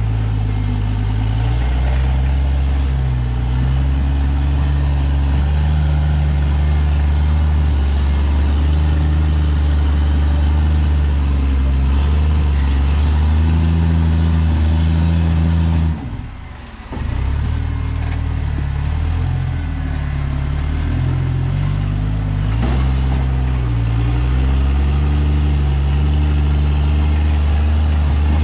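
Rock-crawling buggy on 43-inch tires climbing a rock trail, its engine running at low revs and rising and falling in short throttle blips as it crawls. About sixteen seconds in the engine drops off sharply for about a second, then picks up again.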